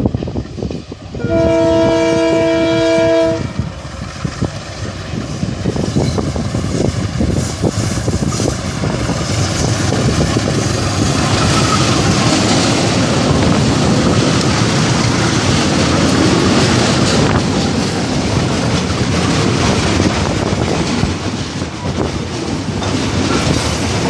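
Transnet Class 35 diesel locomotive sounds one horn blast, a chord of several tones lasting about two seconds. Then the engine and the wheels on the rails grow louder and stay loud, with wheel clatter, as the freight train passes close by.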